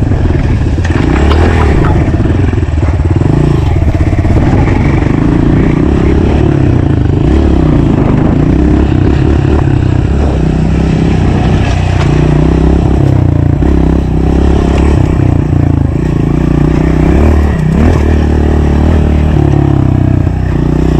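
Honda CRF125 pit bike's single-cylinder four-stroke engine revving up and down under hard riding, its exhaust tip removed for a louder note.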